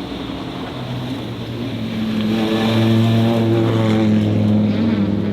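A car on the hill climb approaching, its steady low drone growing louder about two seconds in.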